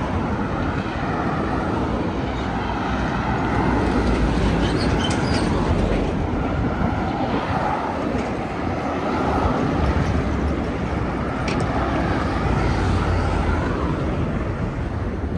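Steady noise of road traffic going past, with no single event standing out.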